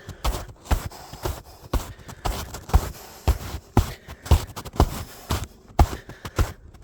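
Running footsteps crunching and breaking through an icy snow crust, a sharp crunch about twice a second in a steady rhythm.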